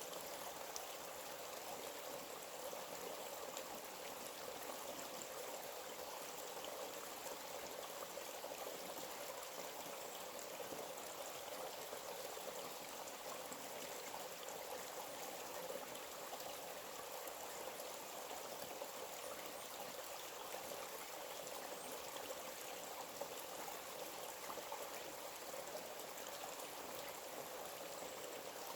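A forest stream running steadily, a continuous even rush of flowing water.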